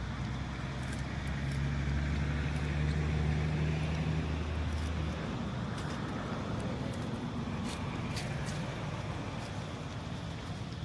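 A motor vehicle's engine running nearby, a steady low hum that rises slightly and then stops about five seconds in, over steady outdoor background noise with scattered faint clicks.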